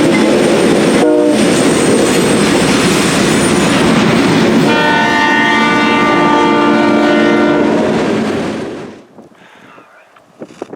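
Freight train passing close by, loud and steady with wheel clatter, its locomotive horn giving a short blast about a second in and a longer chord-like blast from about five seconds to eight. The sound drops away sharply near the end.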